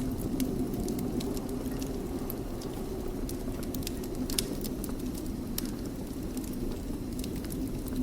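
Wood fire burning in a fireplace: a steady low rumble of the flames with frequent sharp crackles and pops at irregular intervals, a louder pop about four and a half seconds in.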